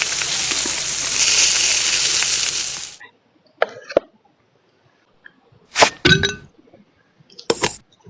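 A loud, steady hiss for about three seconds that cuts off abruptly, then a few separate clinks and knocks of cookware, one with a brief ring.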